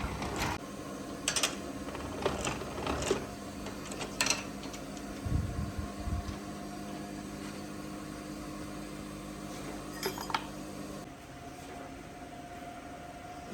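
Steady machinery hum in a factory workshop, with scattered sharp metallic clanks and knocks and one low thud. The hum stops about eleven seconds in.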